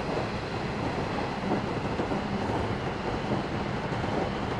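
Steady running noise inside a JR 113 series electric train's driving trailer car (KuHa 111): wheels rumbling on the rails with a faint steady hum underneath.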